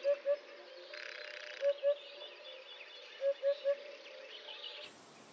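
Eurasian hoopoe singing its territorial song: short low 'oop-oop' notes in a group of three, then two, then three, over faint chirping of insects and small birds.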